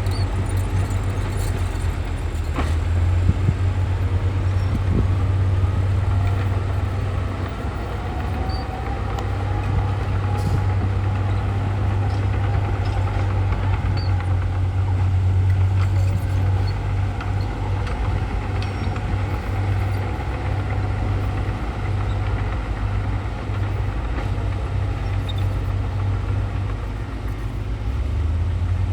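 Heavy diesel earthmoving machinery running steadily with a deep, pulsing engine hum, as a bulldozer works the fill. A faint wavering whine rises and falls through the middle.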